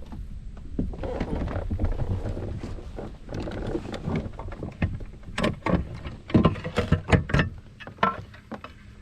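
Rustling and handling noise aboard a kayak, with wind on the microphone, then a quick run of sharp knocks and thumps in the second half, the loudest of them a little past the middle.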